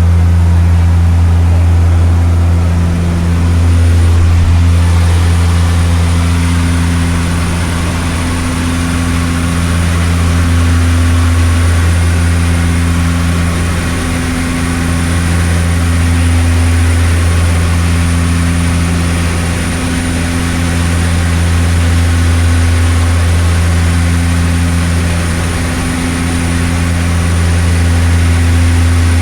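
Seaplane's propeller engines droning steadily, a loud low hum with a thin high whine above it. The level swells and eases slowly every few seconds.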